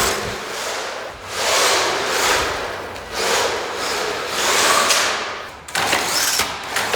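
WLToys 144002 1/14-scale RC monster truck driven in throttle bursts over rough ground: repeated surges of scrabbling noise rise and fall, followed by a few sharp knocks near the end.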